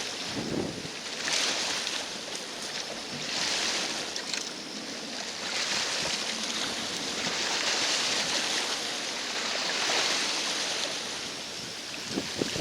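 Choppy lake water washing against the shore, surging and easing about every two seconds, with wind buffeting the microphone.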